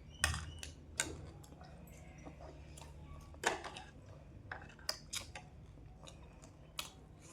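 Crunchy puffed-rice jhalmuri being eaten by hand: scattered sharp crackles and clicks of the crisp rice, irregular and fairly faint.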